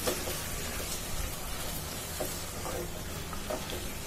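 Soaked moong dal being stir-fried in oil and spice paste in a non-stick pot: a steady soft sizzle, with light scraping and a few faint ticks from a silicone spatula turning the lentils.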